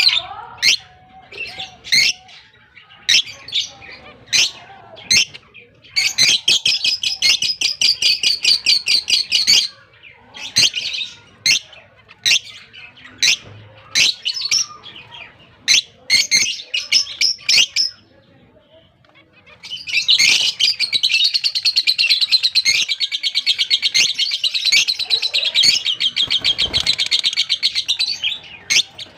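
Blue masked lovebirds calling: sharp, high single chirps about once a second, broken by bouts of rapid chattering, the longest lasting about eight seconds in the second half.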